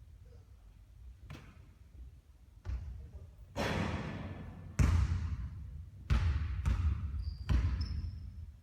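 Basketball bouncing, about eight irregularly spaced impacts with a short ringing decay after each. The loudest come a little under five and about six seconds in.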